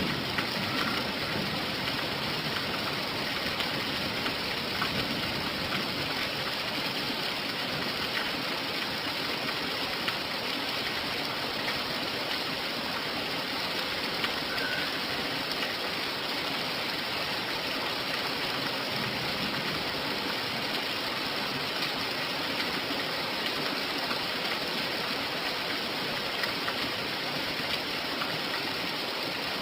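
Steady rain falling, an even hiss, with a low rumble of thunder dying away at the very start.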